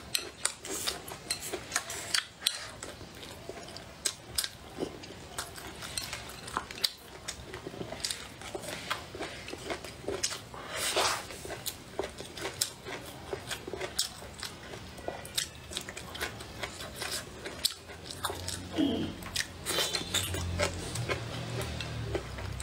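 Close-up eating sounds: chewing, biting and crunching through stir-fried green chili peppers and cured pork, with many short sharp clicks throughout. A low hum comes in over the last few seconds.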